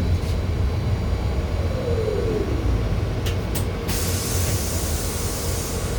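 BKM 32100D trolleybus running, heard from inside the cabin: a steady low rumble, with the traction drive's whine falling in pitch about two seconds in as it slows. Two clicks follow, then a hiss for the last two seconds.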